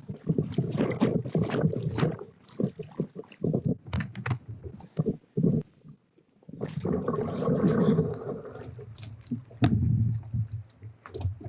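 Irregular knocks, clunks and scraping rustles from a kayak and its gear being handled, with a short pause about six seconds in.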